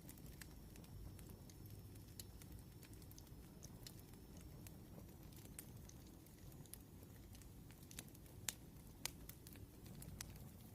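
Faint crackling of a burning wood fire: scattered sharp snaps and pops over a low rumble, with two louder pops near the end.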